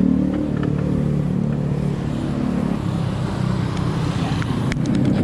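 A motor vehicle's engine running close by, steady, easing off a little in the middle and growing louder again near the end, with a few sharp clicks just before the end.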